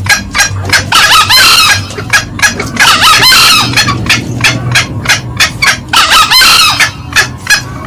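Green junglefowl calling loudly, male crowing mixed with female cackling: a quick string of short clucks, about three or four a second, broken three times by longer, fuller crows.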